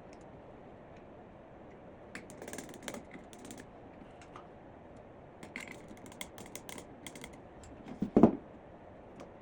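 Irregular light clicks and taps in two short runs, like small hard objects being handled, then one louder knock about eight seconds in.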